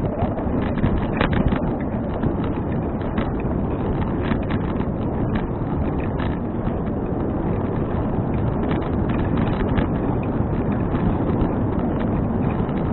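Wind buffeting an action camera's microphone while riding a bicycle, a steady rushing noise with scattered small ticks and rattles.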